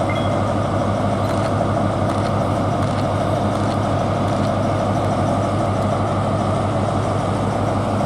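Class 43 HST power car's diesel engine idling with a steady, loud drone.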